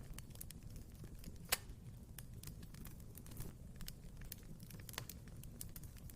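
Wood fire burning in a fireplace, crackling with irregular sharp pops and snaps over a low steady rumble of flame; one loud snap about a second and a half in.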